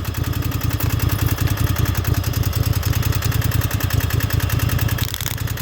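Lawnmower engine running steadily at idle with an even pulsing beat. The sound dips briefly about five seconds in.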